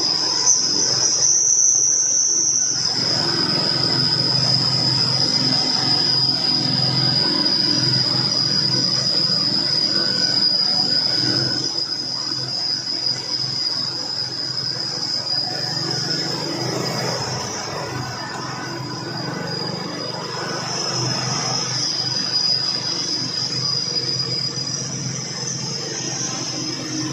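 Heavy truck's diesel engine running under load on a steep mountain climb, a low rumble that rises and falls. Over it, a steady high-pitched insect drone.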